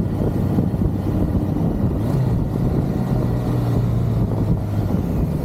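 BMW K100 inline-four motorcycle engine running steadily while riding at road speed, with wind rushing over the microphone.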